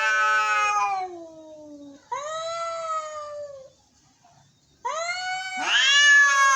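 Angry domestic cats caterwauling: long, drawn-out yowls, each sliding down in pitch at its end. A second yowl rises in over the last one, about two-thirds of the way through.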